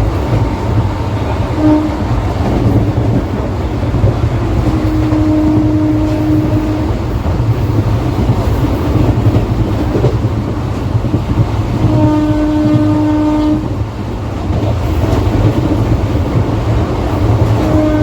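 Passenger train running with a steady low rumble, its horn sounding four times: a short blast, two longer blasts of about two seconds each, and another starting near the end.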